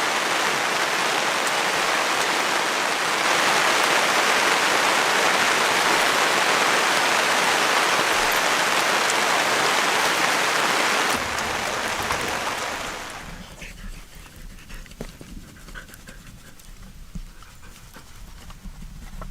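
Heavy rain pouring steadily, growing louder about three seconds in. About eleven seconds in it drops away to a much quieter background with scattered small crackles and pops.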